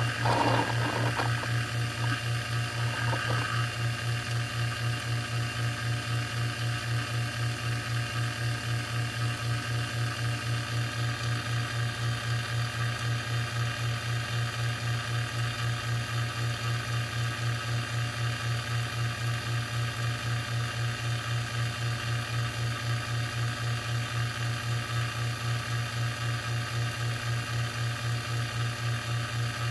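Electric A/C vacuum pump running steadily with a low hum and an even, fast pulse, pulling vacuum through the system to draw compressor oil into the low-side line. A few short rattles and clicks sound in the first few seconds.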